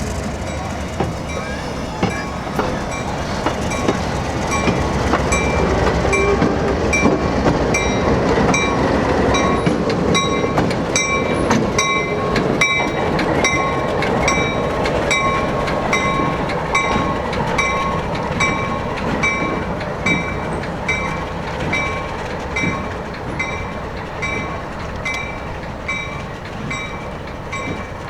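A train rolling slowly by, its rumble swelling and easing, with wheels clicking over rail joints. A bell rings steadily at about one and a half strokes a second.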